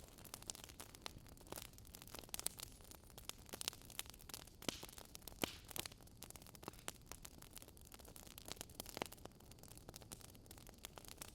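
Wood fire in a fireplace crackling, with irregular sharp pops and snaps over a faint steady hiss.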